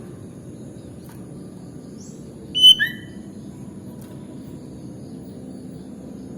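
Sooty-headed bulbul (kutilang) giving one short burst of clear whistled notes about two and a half seconds in, over a steady low background hum. A faint, high, rising chirp comes just before it.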